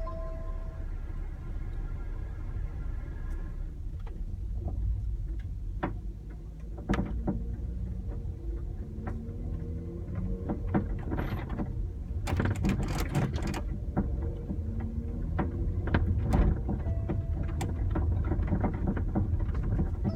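Knocking and rattling from the boot of a BMW X3 (F25), the fault the car is being checked for. There are irregular sharp knocks over a steady low driving rumble, thickest about twelve seconds in.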